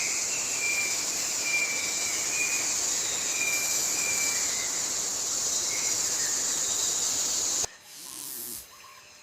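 Rainforest ambience: a steady high-pitched hiss with faint thin whistles beneath it, cutting off suddenly near the end.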